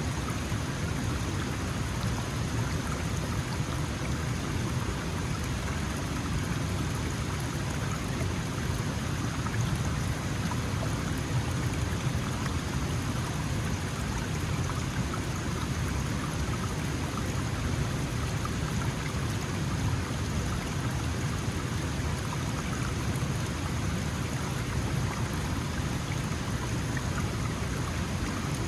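Small mountain stream flowing: a steady rush and splash of water over stones.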